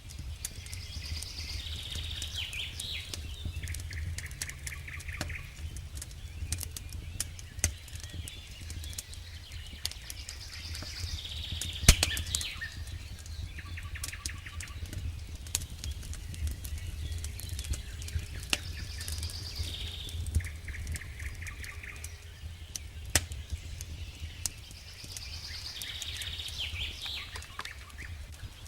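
Campfire crackling, with scattered sharp pops of burning wood and one loud pop about twelve seconds in. A songbird repeats the same short, high song phrase about every eight seconds over a steady low rumble.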